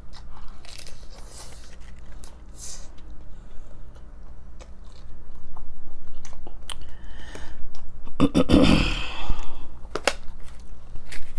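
Hard, toasted taco shells being bitten and chewed close to the microphone: scattered crunches and clicks, with a louder crunch about eight seconds in.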